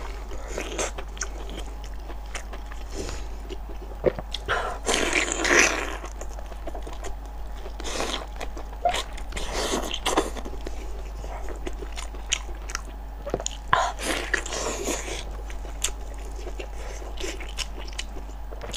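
A person biting and chewing braised pork large intestine stuffed with small intestine, in a spicy oily sauce. The bites and chews come irregularly, with louder ones about five seconds in and again around ten seconds.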